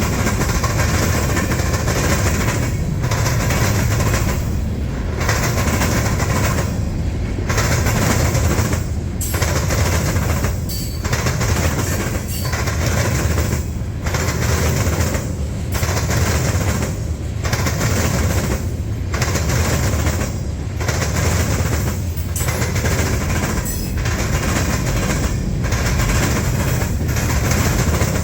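Freight train rolling past, its wheels clattering over the rail crossing diamond in a steady repeating rhythm, about one car every one and a half to two seconds.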